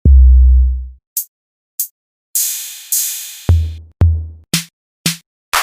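Electronic drum-machine samples struck one at a time: a long deep bass-kick boom, two short high ticks, two longer hissing cymbal hits, two more short deep kicks, then a run of sharp snappy hits near the end.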